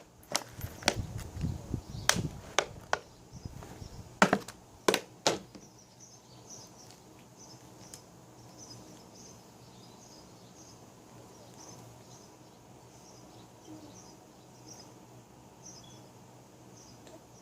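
Hands digging and rummaging through dry potting soil in a container to find potatoes: crunching with a run of sharp knocks, which stops about five and a half seconds in. Faint high chirping runs on under it and after it.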